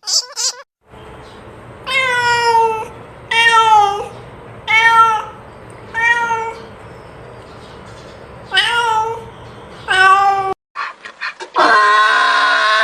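An animal calling over and over: six short pitched calls, each under a second, about a second and a half apart. Then a longer, louder call starts near the end.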